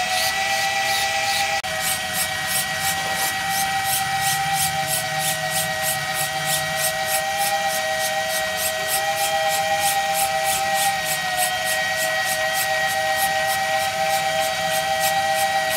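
Small DC hobby motors whining steadily as they drive a miniature model brick press and rubber conveyor belt, with a fast, even ticking from the little plastic gears, about four ticks a second.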